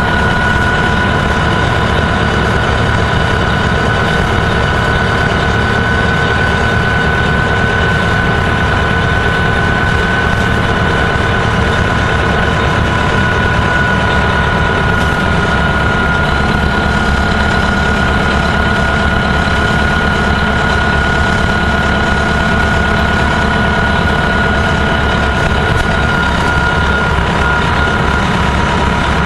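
Gillig Phantom transit bus's diesel engine running steadily, with a constant high-pitched whine over the engine's drone.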